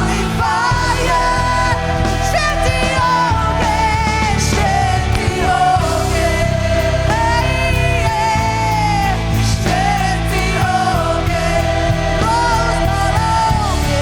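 Live worship band playing rock-style praise music with a lead vocalist singing long, held melodic lines over sustained bass and keyboard-guitar chords.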